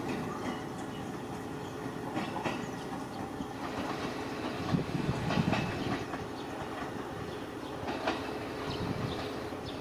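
Hachikō Line electric train running on the rails at a station: a steady rumble with a faint steady tone and scattered clicks from the wheels, a little louder about halfway through.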